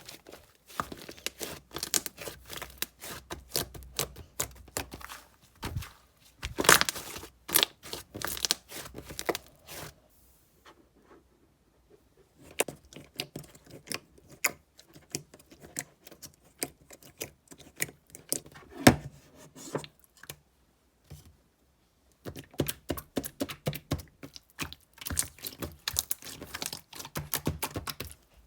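Slime being squeezed and stretched by hand, giving dense runs of crackling, popping clicks, with two short pauses about a third and two thirds of the way through.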